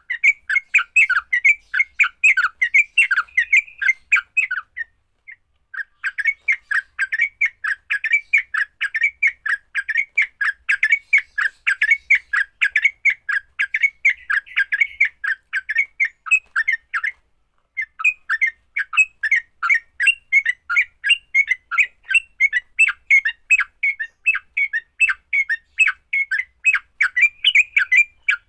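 Yellow-vented bulbul (trucuk) giving its rapid, scolding 'fighting' chatter: a dense run of harsh, bubbly notes, several a second, broken by two short pauses.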